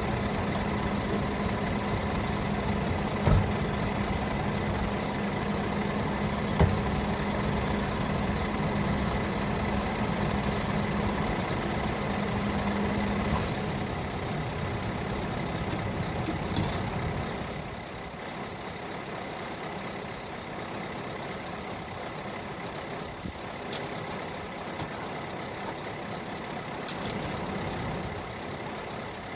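Scania R660's V8 diesel engine running steadily at idle, its low hum falling away about 18 seconds in. A couple of sharp clicks and a few short high hisses are heard over it.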